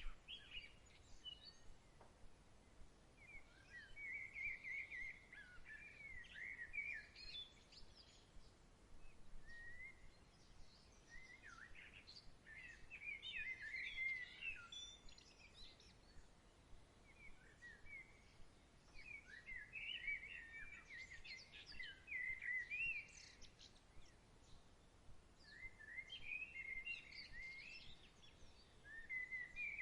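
Songbirds singing faintly in short warbling phrases that come back every few seconds, over a soft steady background hiss.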